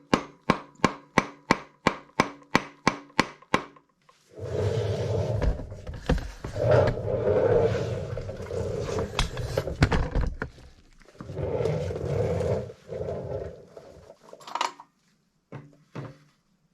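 Rubber mallet tapping steadily on a planer's cutterhead shaft, about three blows a second, driving the gearbox assembly out of the frame. The taps stop after about four seconds and give way to two spells of rough scraping, then a few single knocks near the end.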